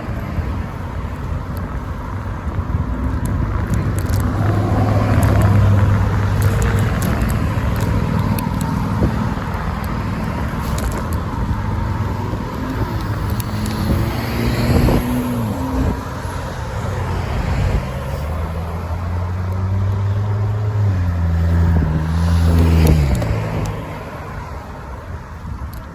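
Motor vehicles passing close by in road traffic, their engines humming and swelling twice as they go past, over a steady rush of road and wind noise, with scattered light clicks.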